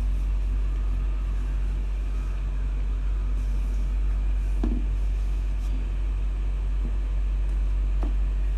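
A steady low hum, with a faint short sound a little past the middle.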